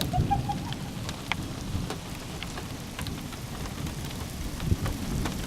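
Rain falling during a thunderstorm, with scattered individual drops ticking and a low rumble of thunder underneath.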